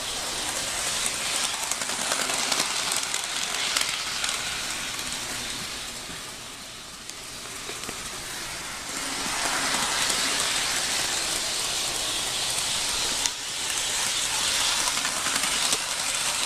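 HO scale model train, a non-sound EMD GP50 diesel locomotive with freight cars, rolling over model track with a steady crackly rattle of wheels on rail. The rattle fades for a few seconds and then comes back louder, with one sharp click past the middle.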